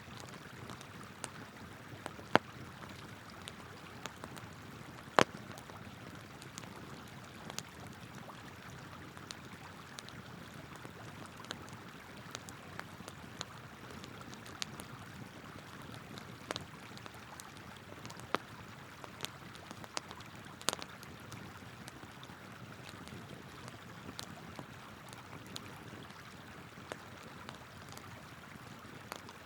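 Wood campfire crackling with irregular sharp pops, a few of them much louder than the rest, over the steady rush of a flowing river.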